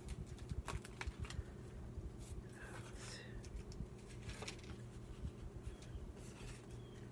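Paper rustling and handling, with scattered light clicks and taps, as journal pages and paper cut-outs are moved about on a craft table.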